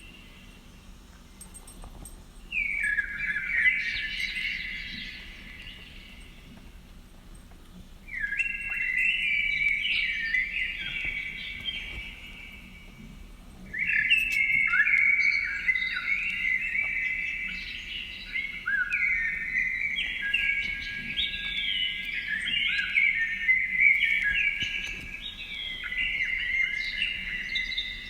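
Birds chirping and twittering in bouts of several seconds, many quick gliding notes overlapping, with short lulls between bouts and almost no break in the second half.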